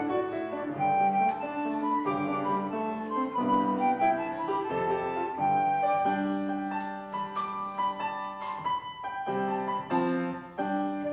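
Instrumental worship music: a slow, flute-toned melody in sustained notes over keyboard accompaniment.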